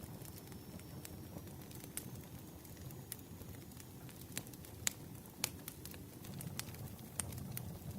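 Campfire crackling: irregular sharp pops and snaps over a low steady rumble of burning wood, with a few louder pops in the second half.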